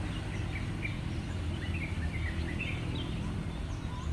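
Small birds chirping faintly, a string of short high chirps that slide downward, over a steady low background noise.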